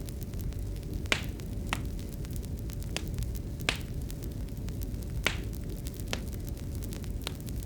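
Wood fire crackling in a fireplace: sharp pops about once a second and many faint ticks over a steady low rumble.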